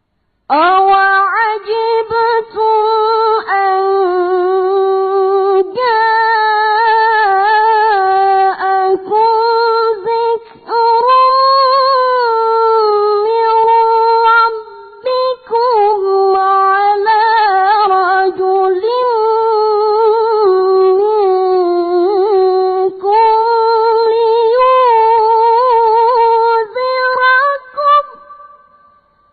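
A young boy's high voice reciting the Qur'an in ornamented tilawah style: long drawn-out melodic phrases with held, wavering notes and brief breaks, fading out near the end.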